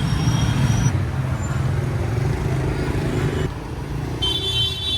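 Street traffic noise with motor vehicle engines running steadily. A short high-pitched tone, like a horn or beep, sounds near the end.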